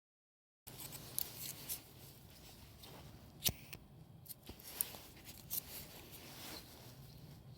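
Rustling and scattered sharp clicks of things being handled, with the sharpest click about three and a half seconds in.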